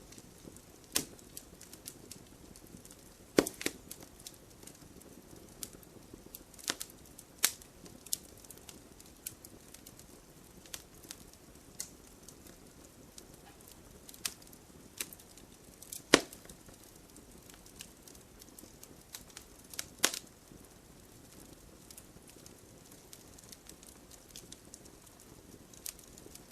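Burning firewood crackling, with irregular sharp pops and snaps over a low steady hiss; a few louder pops stand out, the loudest about 16 seconds in.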